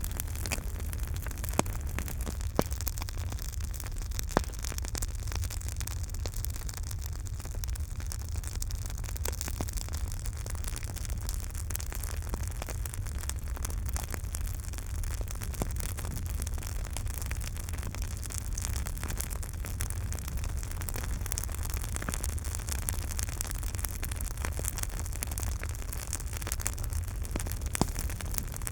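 Campfire crackling: a steady low rumble of burning under constant small crackles, with a few louder pops in the first few seconds and one more near the end.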